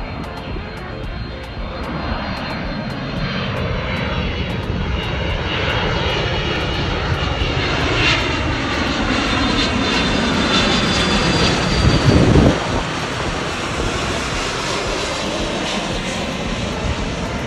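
Boeing 767-300ER jet airliner's twin turbofan engines (GE CF6-80C2) on landing approach, growing louder to a peak about twelve seconds in, the engine whine falling in pitch as it passes, then easing off.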